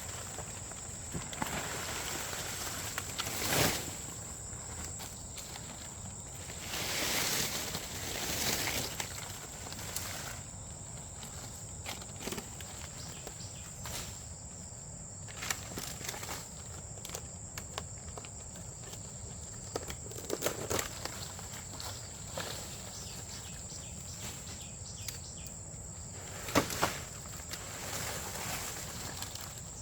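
Insects, likely crickets, keep up a steady high-pitched drone, over outdoor background noise with scattered footsteps, rustles and light knocks. A few louder rustling bursts come through, the sharpest near the end.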